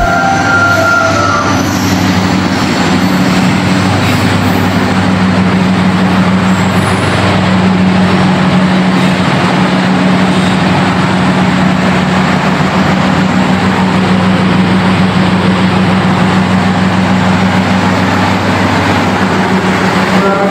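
Train at a station platform, running with a loud, steady low hum under an even rushing noise that does not change.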